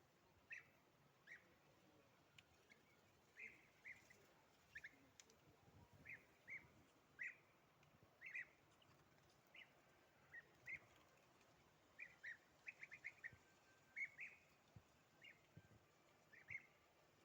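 Birds chirping: short, high chirps come one or two at a time every second or so, with a quick run of several in a row about two thirds of the way through, over faint outdoor background.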